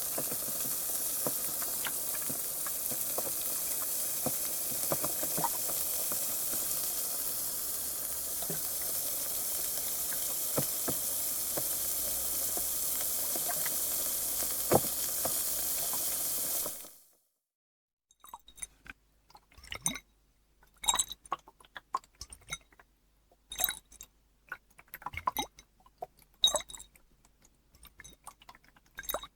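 Carbonated water fizzing: a steady bright hiss with scattered small pops, which stops abruptly about two-thirds of the way in. After a second of silence comes a run of irregular short clicks and crackles.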